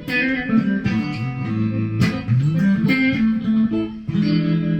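Epiphone Emperor Swingster electric archtop guitar played: a run of picked notes, one sliding up in pitch midway, then a chord struck about four seconds in and left ringing.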